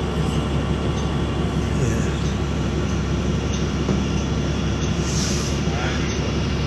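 Steady rumble and hum of a city transit vehicle, heard from inside the passenger cabin.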